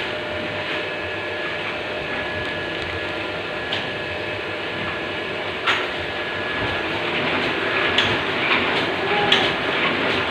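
Steady machine hum and whir with a few sharp clacks, getting busier and louder in the last few seconds.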